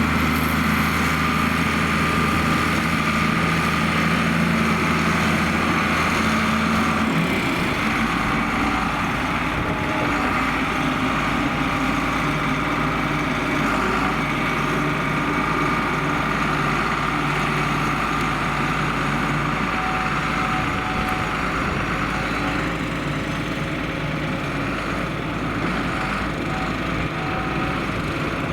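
John Deere 4850's six-cylinder diesel engine running steadily while pulling a six-furrow plough; its low engine note changes about seven seconds in.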